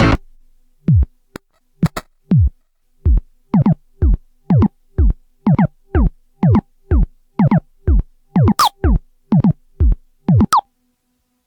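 Korg Volca FM synthesizer playing a percussive sequence of short FM hits, about two a second, each with a pitch that drops like a kick drum and a higher tone that sweeps upward. A sustained chord cuts off just as the pattern starts, and the hits stop shortly before the end.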